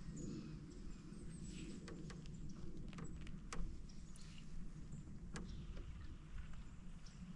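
Canoe being paddled: scattered sharp knocks and clicks from the paddle and creaky hull, the loudest about three and a half seconds in, over a steady low rumble.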